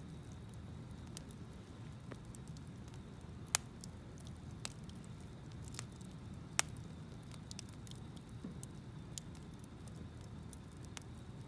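Wood campfire crackling, with irregular sharp pops, the loudest about three and a half and six and a half seconds in, over a steady low rumble.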